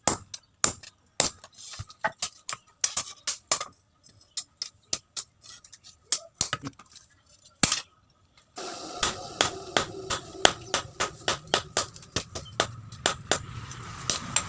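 Hand-hammer blows on steel at an anvil while forging a machete blade from chainsaw-bar steel, about two strikes a second, each with a ringing tone. The blows thin out for a few seconds in the middle; about two-thirds through, a steady rushing noise comes in under the renewed hammering.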